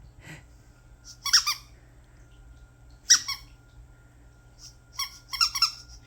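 Squeaky dog toy squeezed in short bursts, four high-pitched squeaks spaced a second or two apart, the last two close together.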